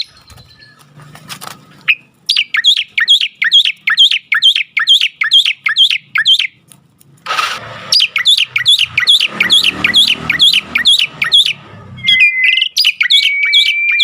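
Myna calling in fast runs of repeated chirps, about four or five a second, broken by a short noisy burst around the middle; near the end a long, steady whistled note.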